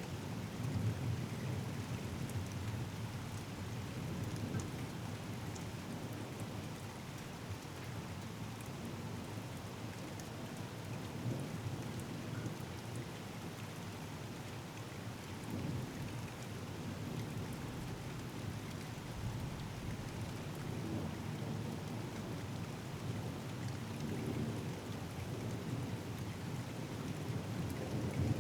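Steady rain falling on surfaces with fine drop ticks, under a continuous low rumble of thunder that swells a little now and then.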